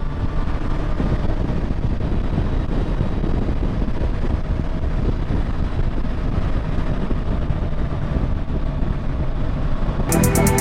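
Motorcycle riding at steady cruising speed, heard from a camera on the bike: a continuous low engine and road rumble mixed with wind noise. Electronic music cuts in just before the end.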